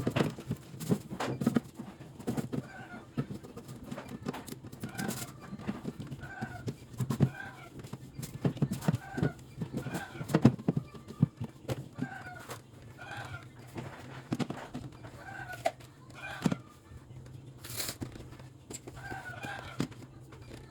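Chickens clucking in short calls, repeating about once a second, over scattered knocks and clatter and a steady low hum.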